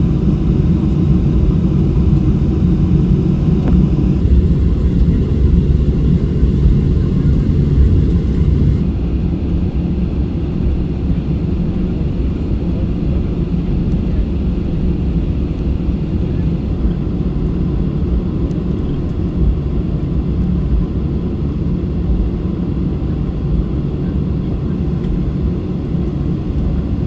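Boeing 737-600 running with a steady, loud low rumble from its CFM56-7B engines; a fainter hiss on top drops away about nine seconds in.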